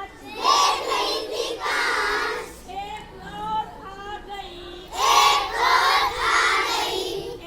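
Children singing a Hindi rhyme together, in two loud group phrases about half a second in and again about five seconds in, with quieter single-voice singing between them.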